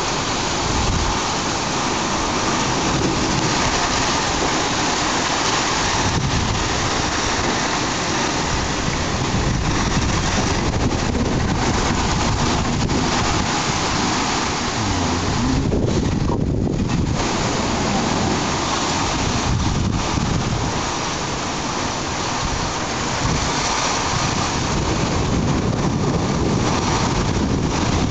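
Heavy wind-driven rain pouring in a violent squall, a dense steady hiss, with strong gusts buffeting the microphone and rumbling low.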